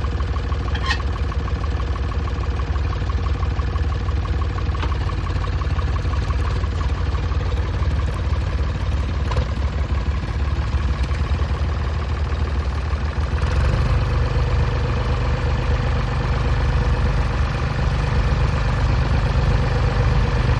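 Ford 3930 tractor's three-cylinder diesel engine running steadily as the tractor is driven. About thirteen seconds in, the engine picks up speed and runs a little louder.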